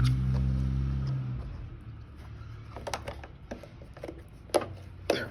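A low hum that fades out over about a second and a half, then a few separate clicks and knocks as a new air filter is pushed into the Kohler XT675 engine's air cleaner housing.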